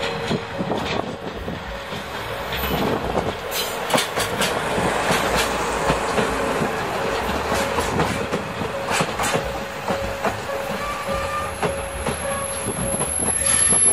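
Passenger coaches and the C12 tank steam locomotive rolling slowly past, wheels clicking over the rail joints with a steady rumble.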